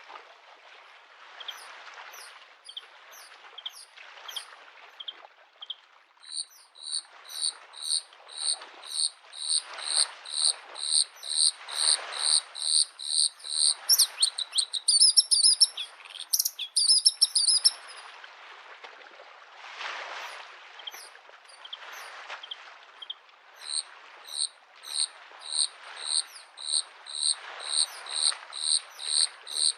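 Bluethroat singing a long run of evenly repeated high notes, about two a second, with a brief warbled flourish partway through. Small lake waves lap at the shore in soft swells every couple of seconds.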